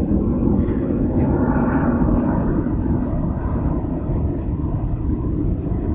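Pickup truck engine running at a steady idle, a continuous low rumble.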